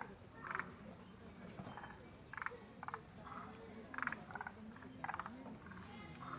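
Forest green tree frogs calling: short rattling croaks, several in a row about a second apart, from more than one frog.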